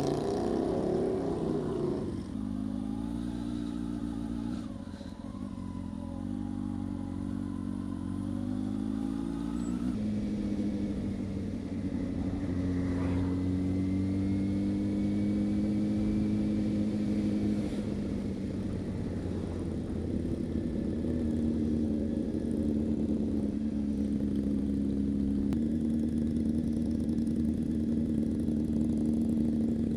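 Honda CB600F Hornet's inline-four engine running as the bike is ridden, its steady note stepping to a new pitch several times.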